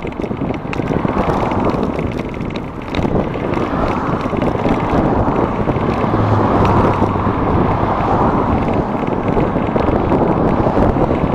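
Wind rushing over the microphone of a moving bicycle, with road traffic going by alongside and several swells as vehicles pass. A low engine hum comes in about six seconds in and fades after a couple of seconds.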